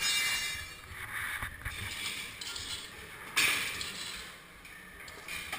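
Motocross bike engines revving in an indoor hall, rising sharply at the start and again about three seconds in, then easing off.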